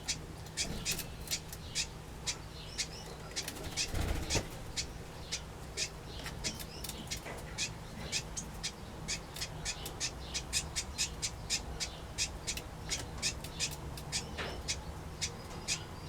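Small aviary finches and waxbills calling steadily, short high chirps several times a second, with a low thump about four seconds in.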